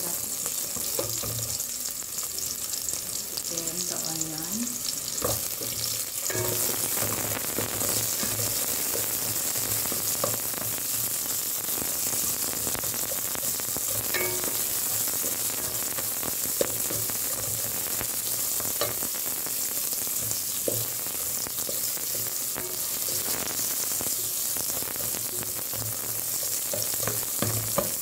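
Minced garlic and sliced red onion sizzling steadily in hot oil in a stainless steel pot, stirred with a wooden spatula that now and then clicks and scrapes against the pot.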